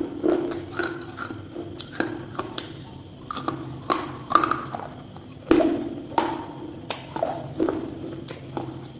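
Irregular knocks and taps of hard objects, about one or two a second, each with a short ring.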